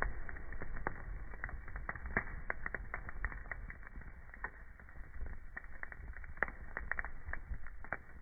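Wood fire burning in a fireplace: irregular crackles and sharp pops from the burning logs over a steady low rumble.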